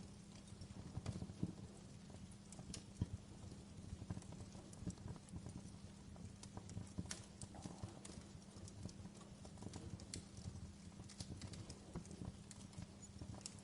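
Fireplace wood fire crackling: faint, irregular snaps and pops over a low steady rumble of the flames, with one sharper pop about three seconds in.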